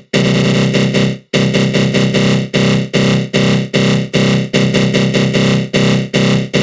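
Synthesized attack-growl sound effect: a harsh, buzzy synth tone swept by a flanger. It holds for about a second after a brief break, then chops into short pulses, about two or three a second.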